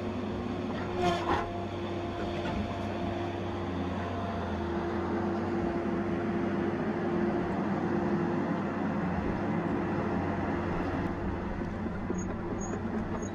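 Tigercat 870C feller buncher's diesel engine running steadily under work, with two short knocks about a second in.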